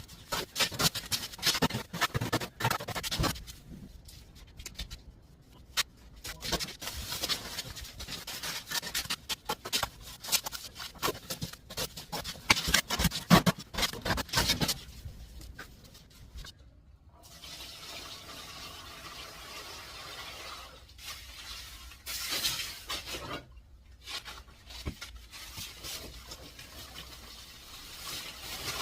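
Cement mortar being worked on a floor: repeated scraping and wet slapping, with a few seconds of steadier rushing noise a little past the middle.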